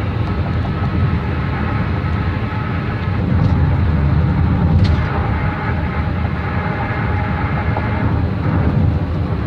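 Tire and road noise of a car on the highway, heard from inside the cabin as a steady low rumble as it crosses a bridge deck. It swells a little from about 3.5 s to 5 s, with a single sharp click about 5 s in.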